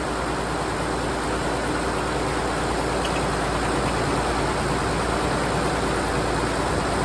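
An engine running steadily at an even speed, with a constant rumble.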